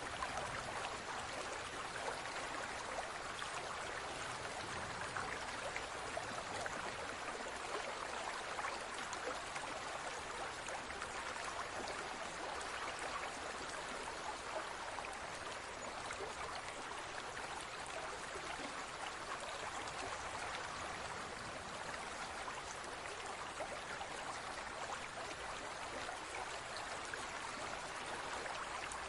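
Steady trickling and bubbling of water in a large fish tank, an even splashing hiss dotted with tiny droplet-like clicks.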